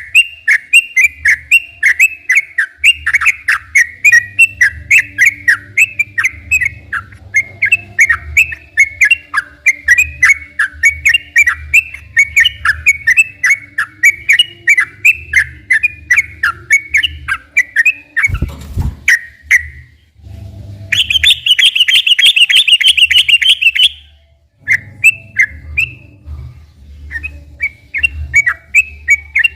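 Yellow-vented bulbul (trucukan) singing long runs of rapid chirping phrases. There is a sudden low thump about 18 seconds in. A faster, higher buzzing trill lasts about three seconds, then the chirping phrases resume.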